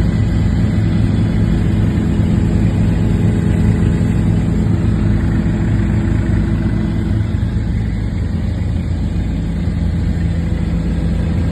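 Helicopter engine and rotors running, a loud, steady drone with a strong low hum that does not change.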